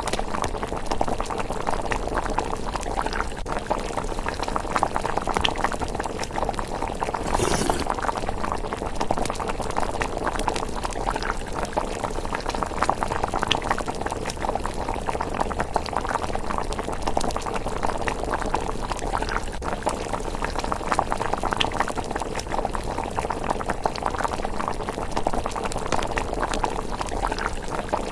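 Miso rice porridge simmering in a pot: a steady, thick bubbling with many small pops. There is a brief louder hiss about seven and a half seconds in.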